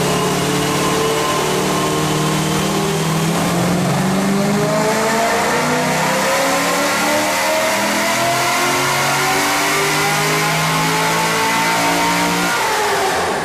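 High-performance car engine making a full-throttle pull on a chassis dyno, its pitch climbing steadily through the revs for several seconds before it lets off near the end.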